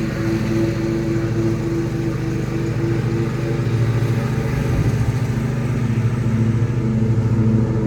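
Riding lawnmower engine running steadily while mowing, with a brief change in its note about five seconds in.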